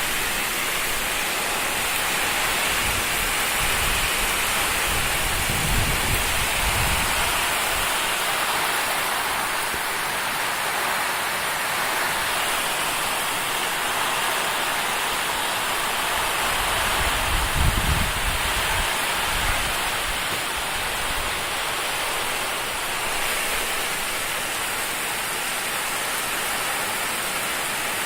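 Heavy rain pouring steadily, with low rumbles swelling briefly twice, about five seconds in and again near eighteen seconds.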